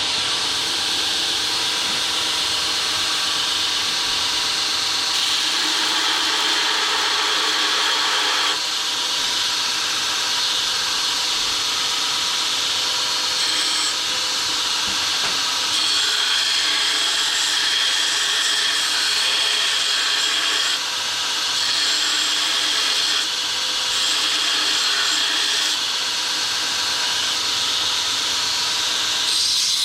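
Power grinder grinding a forged steel punch into shape: a continuous, steady grinding hiss that changes in tone abruptly several times as the work is pressed and moved.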